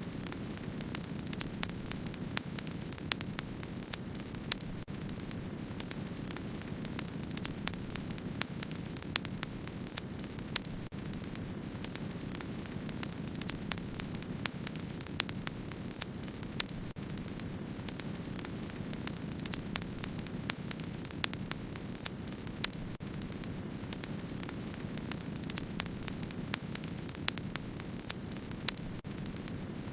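Wood fire burning: a steady low rumble of flames with frequent sharp crackles and pops from the burning wood, several a second at irregular intervals.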